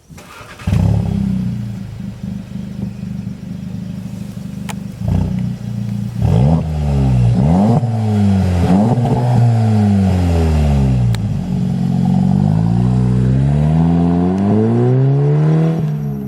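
Volkswagen Golf Mark VII 2.0-litre turbocharged four-cylinder engine, through a Corsa 3.0-inch cat-back exhaust with dual rear exits, starting up with a brief flare and settling to a steady idle. It is then revved repeatedly in neutral, a few quick blips followed by longer rises and falls in pitch.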